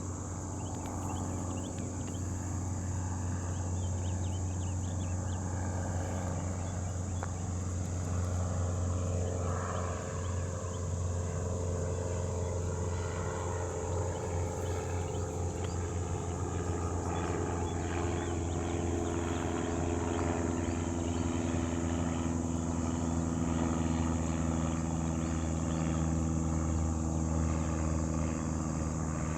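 Aircraft passing overhead, its engine tones sliding slowly down in pitch as it goes by, against a steady low rumble.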